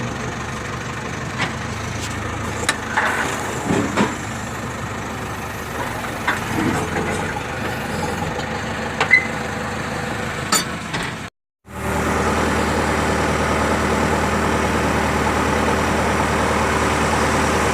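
Heavy diesel engine of the loading machinery running steadily, with occasional sharp knocks and clanks. A little past halfway the sound drops out for a split second and returns with the engine louder and steadier.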